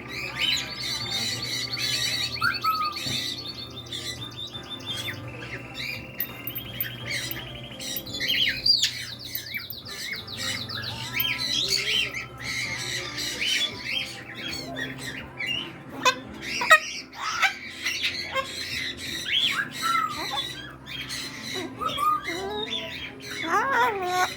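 Many caged parrots, cockatoos among them, squawking and chirping together, several calling at once. The first part holds rapid buzzy repeated calls, and the loudest sharp squawks come about two-thirds of the way in.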